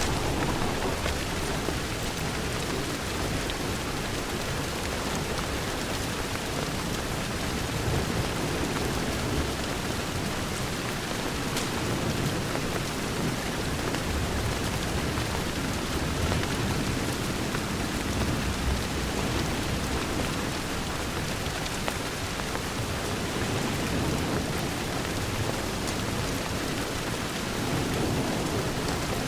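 Steady rain falling on a window, an even hiss over a deep low rumble, with faint crackles from a wood fire in a fireplace.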